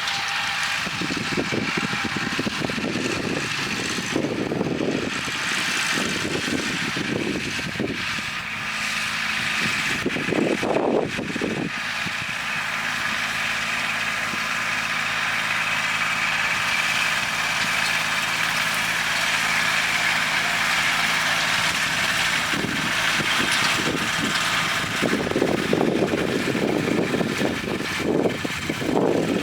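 Kubota tractor's diesel engine running at a steady hum. Bursts of rushing noise come and go over it in the first ten seconds and again near the end.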